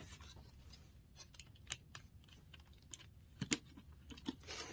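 Scattered light clicks and taps of plastic parts being handled, with a few louder knocks about three and a half seconds in.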